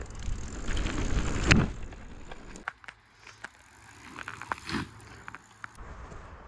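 Small childhood bicycle on a dirt trail: rumbling and rattling with a sharp knock about one and a half seconds in, then quieter with scattered clicks and knocks.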